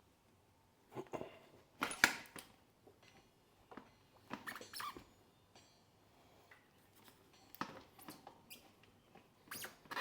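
Irregular clicks, taps and light metallic clinks of hand tools at work on a dirt bike's front wheel and brake, coming in short clusters, a few with a brief ring.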